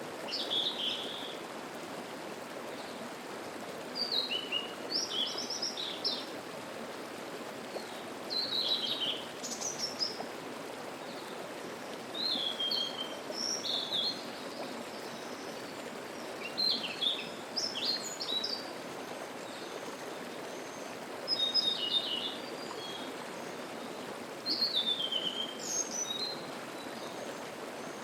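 A songbird singing short, high, quick phrases, one every three to four seconds, over the steady rush of a mountain stream.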